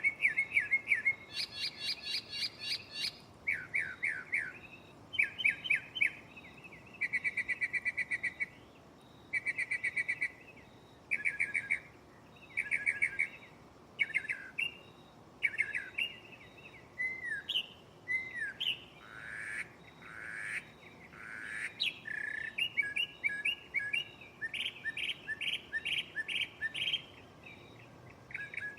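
Northern mockingbird singing a long run of varied phrases: each phrase is repeated several times in quick succession, then it switches to another, working through its catalog of mimicked songs and calls.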